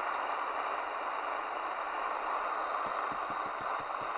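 Midland Alan 8001 CB radio's receiver hissing on an open channel between transmissions, with a quick run of clicks, about eight a second, near the end.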